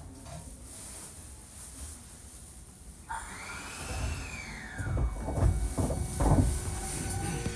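Hankyu 1300 series train pulling away from a stop, heard from inside the car: a low hum at standstill, then about three seconds in the Toyo IGBT VVVF inverter starts up with a whine that rises and then falls in pitch. Traction-motor and wheel rumble build under it, with a few knocks from the rails.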